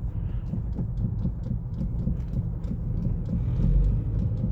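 Car driving, heard from inside the cabin: a steady low rumble with faint, irregular knocks from the front end. The steering-rack rattle is gone with a temporary bushing fitted, but a lighter knock remains.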